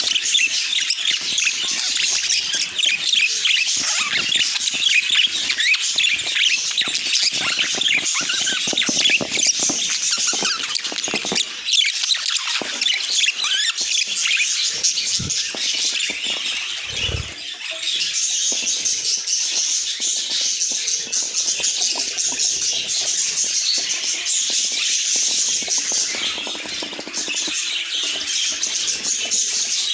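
Budgerigars chattering and chirping nonstop, a dense warble of rapid high chirps and squawks, with a brief low thump about halfway through.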